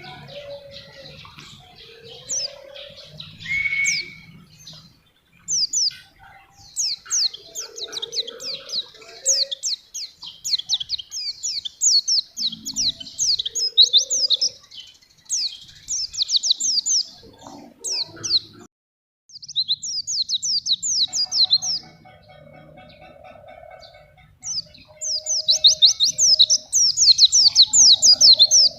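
White-eye (pleci) singing: long runs of rapid, high-pitched twittering made of quick down-slurred notes, with a brief break about two-thirds of the way through.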